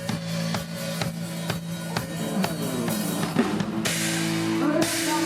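Live band music led by a drum kit playing a steady beat over sustained bass and keyboard tones, with cymbal washes in the second half.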